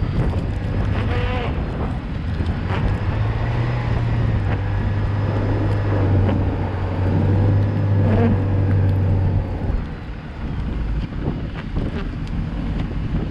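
Car driving on a snowy road: steady engine and road rumble, with a low drone that holds from about two seconds in until near the end and wind on the microphone.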